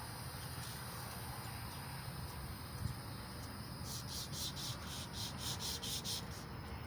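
Emery cloth strip rubbing back and forth on a small-block Chevy 350 crankshaft journal. Between about four and six seconds in it picks up into quick scratchy strokes, about four a second.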